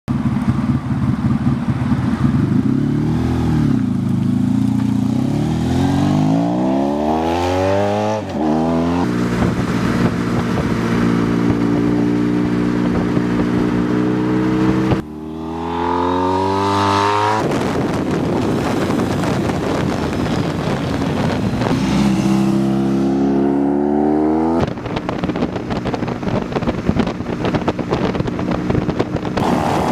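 Ariel Ace motorcycle's Honda V4 engine running and accelerating hard. The pitch climbs and drops back at each gear change, with stretches of steady cruising and wind rush. The sound breaks off abruptly about halfway and again near the end, where the footage is cut.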